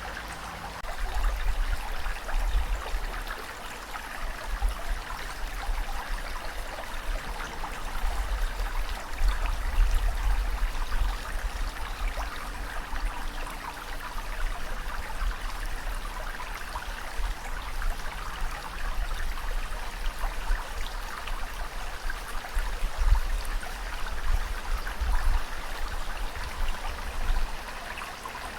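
Continuous rushing and trickling water, with a deep rumble underneath that swells and fades irregularly.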